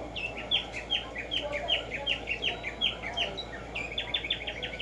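Black-striped sparrow singing: a series of short down-slurred notes, a few a second, speeding up into a fast trill near the end.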